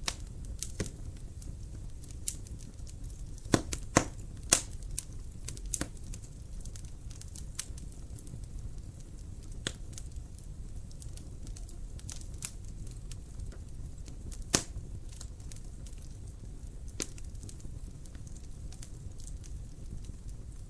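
Wood fire in a fireplace burning with a low steady rumble and irregular sharp crackles and pops, the loudest few about four seconds in and one more near the middle.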